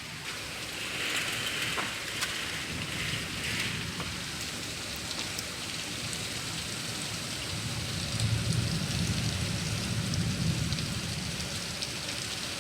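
Heavy thunderstorm rain pouring down steadily, with water streaming off a rain chain. A low rumble swells about eight seconds in.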